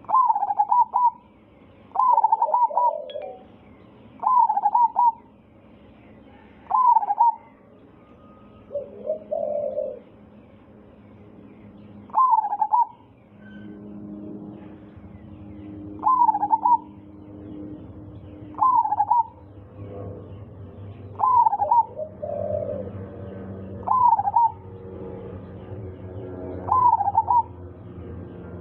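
Zebra dove (perkutut) singing: a loud cooing phrase repeated about every two to three seconds, about ten times, with a few lower, softer coos in between.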